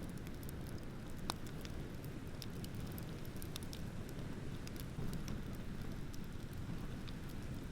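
Wood bonfire crackling, with frequent small pops and one sharper pop about a second in, over a steady low rumble of ocean waves.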